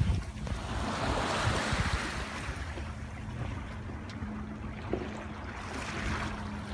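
Water rushing and splashing along the hull of a 1981 Hunter 33 sailboat under way, swelling about a second in and again near the end, with wind rumbling on the microphone and a faint steady low hum.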